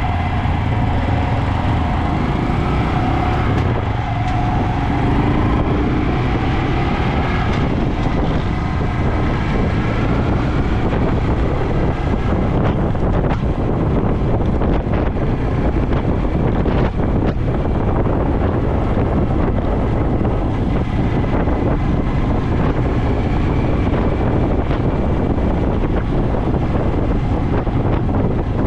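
Honda Dax125's single-cylinder engine running through a Takegawa normal-look sport muffler, with heavy wind noise on the microphone. The engine's pitch shifts in the first part.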